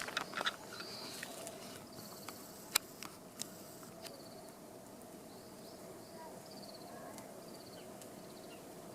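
Quiet outdoor ambience: short high chirps recur every second or two over a faint steady hum, with two or three sharp pops about three seconds in.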